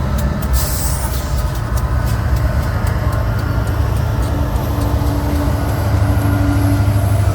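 Diesel locomotives, the distributed power units of a loaded coal train, running past with a steady low rumble. A steady hum joins about four seconds in, and the rumble grows slightly toward the end.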